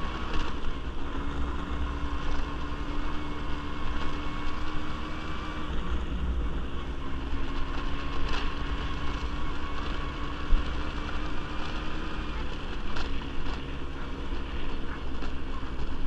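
ATV engine running steadily while the quad is ridden along a dirt track, its pitch shifting a little with the throttle, with a few short knocks from bumps.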